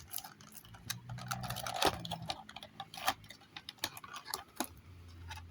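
Irregular light clicks and taps of a small diecast model bus and its packaging being handled, with a short stretch of scraping between about one and two seconds in.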